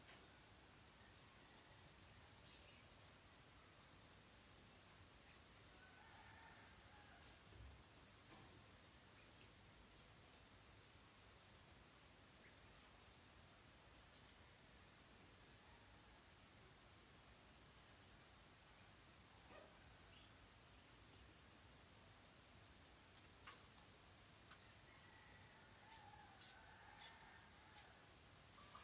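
An insect chirping in trains of rapid, even high-pitched pulses, about three a second, each train lasting three to six seconds with a short pause between. Faint bird calls come in about six seconds in and again near the end.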